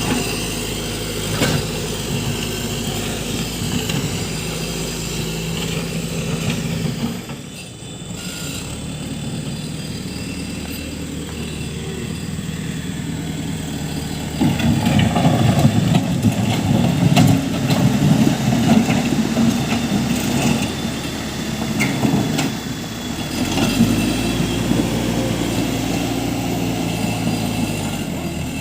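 JCB 3CX backhoe loader's diesel engine running steadily. About halfway through it gets louder and rougher for several seconds as the machine works, then settles back.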